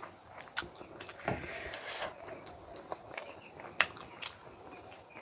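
Close-up mouth sounds of a person eating by hand: chewing and lip-smacking, with scattered sharp wet clicks, the loudest just before the four-second mark, and a short breathy stretch about a second and a half in.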